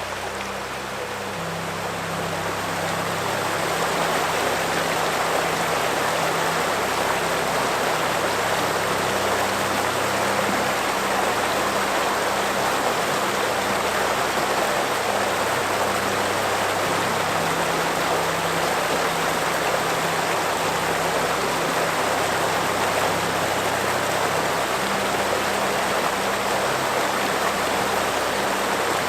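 River water rushing steadily, growing louder over the first few seconds. Soft, low held notes of relaxing music change slowly underneath.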